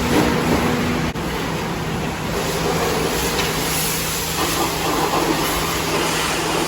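A vehicle running on the road: a steady drone of engine, road and wind noise, with a brief break about a second in.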